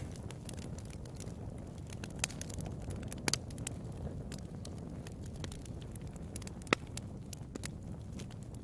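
Fire in a fireplace crackling, with scattered sharp pops over a steady low rumble; a louder pair of pops comes about three seconds in and the loudest single pop near the end.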